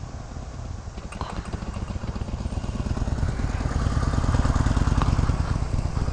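Harley-Davidson Sportster Iron 883's air-cooled V-twin engine running at low speed in first gear, growing louder as the bike comes closer, then easing slightly near the end.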